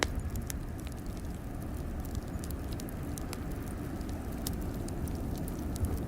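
Wood fire crackling in a fireplace, with scattered sharp pops and snaps over a steady low rumble of blizzard wind.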